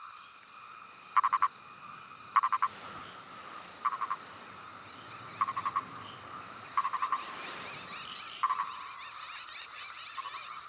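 Male purple frog (Nasikabatrachus sahyadrensis) giving its advertisement call. Each call is a short, quick series of three to five clucking pulses, repeated about every second and a half, seven times in all.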